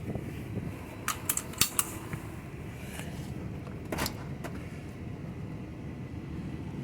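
Ice cream truck's gasoline engine running steadily at low speed, with a cluster of sharp clicks and rattles about a second in and another single one about four seconds in.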